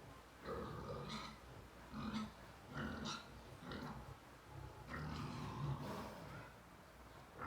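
Sow and her newborn piglets grunting: a string of short grunts at irregular intervals.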